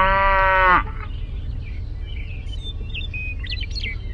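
A cow mooing once, the long call breaking off about a second in, followed by a few faint bird chirps over steady low background noise.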